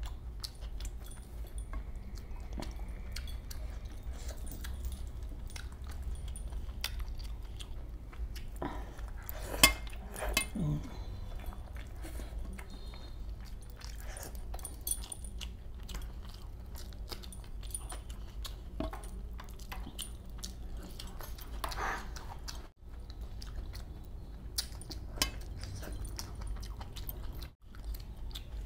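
Close-miked chewing and mouth sounds of a person eating rawas fish masala by hand, with many soft wet clicks over a low steady hum. One sharp click about a third of the way in.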